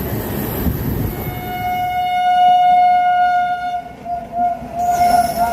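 Train horn sounding: one long steady blast, then shorter broken blasts near the end, over the rumble of the running train.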